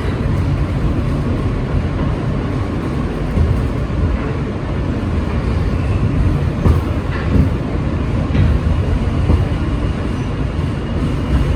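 Subway train running: a steady low rumble with occasional clicks from the wheels and track.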